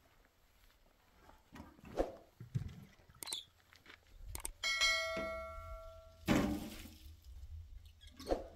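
Soft knocks and handling sounds, then a single clang of a struck hard object ringing out for about a second and a half. A short rushing clatter follows.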